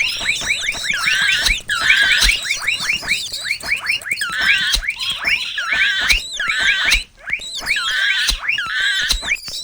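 Mouse squeaking sound effect: rapid, high-pitched squeaks that drop in pitch, coming in quick runs about once a second.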